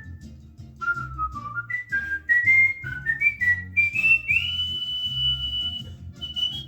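A whistled tune, possibly by a cockatiel: short clear notes step upward, then glide into one long held high note about four seconds in, with another short high note near the end. A low rhythmic rumble runs underneath.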